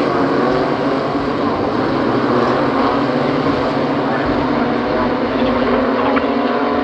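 Engines of BMW M2 CS race cars running at speed on track, a loud steady drone whose pitch stays level with no clear gear changes.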